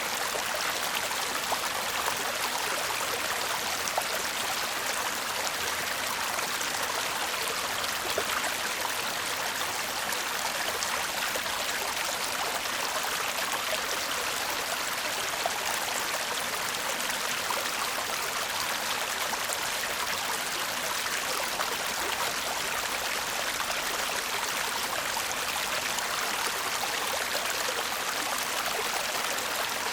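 Shallow stream babbling steadily over rocks, a continuous trickling and splashing with small scattered plinks of water.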